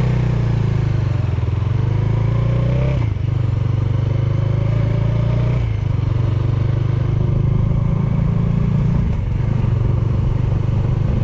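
Bajaj Dominar 400's single-cylinder engine running under way. Its note rises twice and drops back sharply, about three seconds in and again near six seconds, then runs steady.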